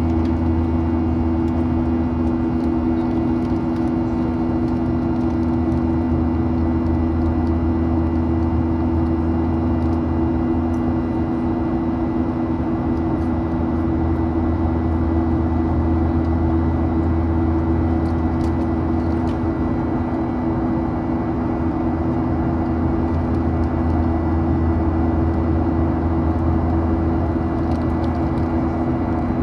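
Boeing 737-800 cabin drone from its CFM56-7B turbofans, a steady loud hum with a few fixed tones over a rushing noise, heard from inside the cabin.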